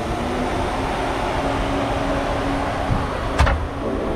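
Fox-body Mustang's engine idling with a steady low drone. A single sharp click comes about three and a half seconds in.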